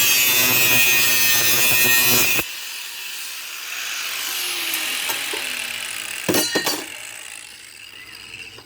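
An abrasive cut-off wheel cuts through a steel saw blade with a loud, shrill whine and grinding scrape, then stops abruptly about two and a half seconds in, leaving a quieter hiss. About six seconds in comes a short, loud bird call.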